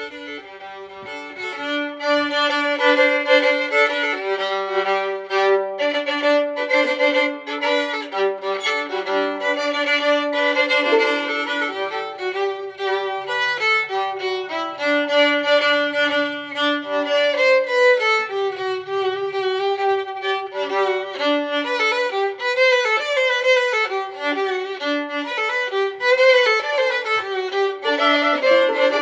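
Background music led by a violin playing a flowing melody.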